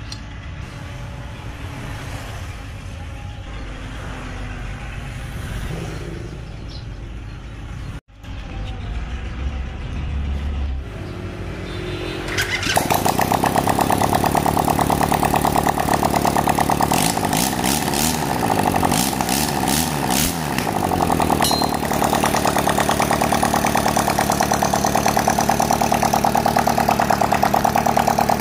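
Homemade two-cylinder 250cc engine built from a Honda Wave motor, turned over on its electric starter and firing about twelve seconds in, then running loudly with a fast, even pulse. The revs go up and down a few times in the middle, and then it runs on steadily: its first start-up test.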